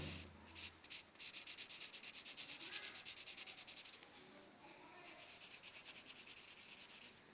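Pencil scratching quickly back and forth on paper, shading, in two runs of a few seconds with a short pause between, about ten strokes a second.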